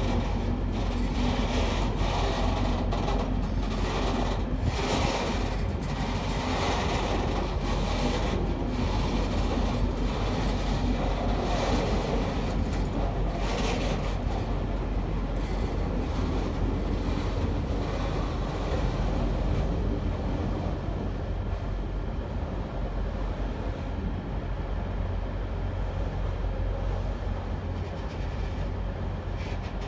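A new Metro train set hauled slowly through a rail yard: its wheels click over rail joints and points, with a steady low hum underneath. The clicks come thickly in the first half and thin out toward the end.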